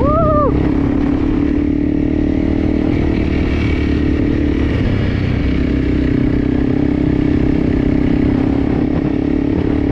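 Enduro motorcycle engine running steadily under way, holding an even note with no big revs. A short tone rises and falls in the first half second.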